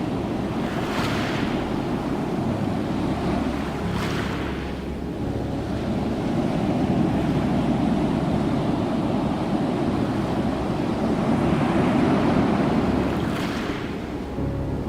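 Ocean surf: waves rushing and washing in a continuous noise that swells and ebbs. A brief hissing wash comes as a wave breaks about a second in, again around four seconds, and near the end.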